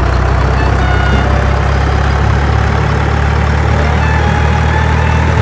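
A heavy vehicle engine running steadily: a deep, even rumble with a faint higher tone that slowly rises in pitch.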